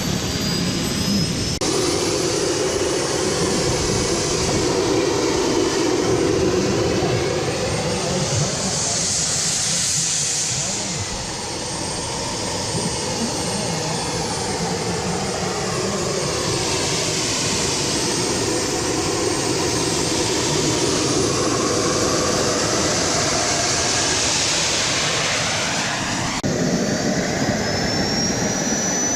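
Model jet turbines of large-scale radio-controlled airliners running: a steady loud rush with a high turbine whine that glides in pitch as the models pass. The sound changes abruptly twice, about a second and a half in and near the end.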